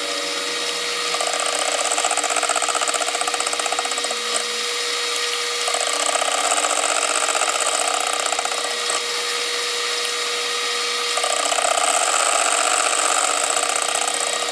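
Metal lathe running steadily while a boring bar takes light passes through a brazed spindle housing. The cutting noise swells three times, each for about three seconds.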